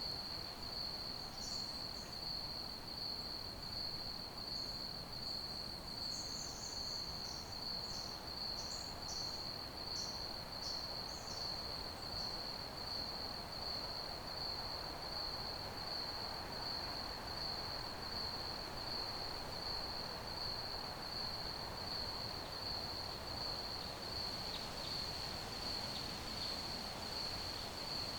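Crickets chirping in a steady, unbroken high trill over a soft background hiss, with a few brief, higher chirps scattered through the first dozen seconds.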